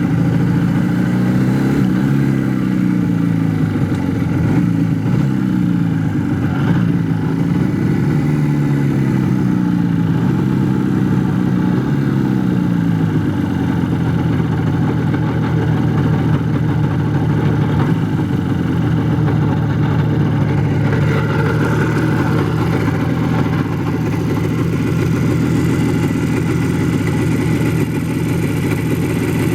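IZh Jupiter-4 two-stroke twin-cylinder motorcycle engine, its revs rising and falling several times, then settling to a steady idle about thirteen seconds in.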